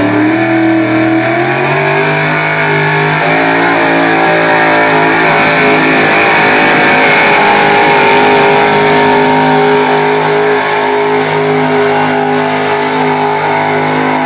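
Super stock 4x4 pulling truck's engine rising in pitch over the first couple of seconds as the truck launches. It then holds at high, fairly steady revs at full throttle while dragging the weight sled down the track.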